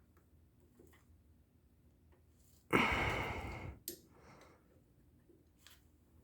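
A person's heavy exhale close to the microphone, about a second long and fading, a little under three seconds in; otherwise faint room tone with a few small clicks.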